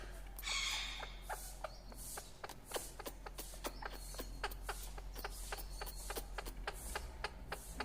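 Pet birds making dry, irregular clicking sounds, a few clicks a second, with a short rasping squawk about half a second in.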